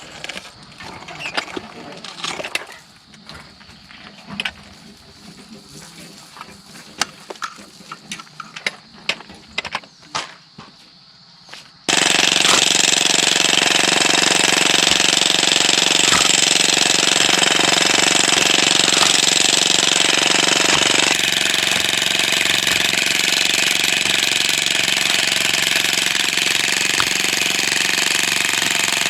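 Scattered knocks and clicks for the first twelve seconds, then a jackhammer starts abruptly and runs steadily, breaking stone. Its sound shifts a little about twenty-one seconds in.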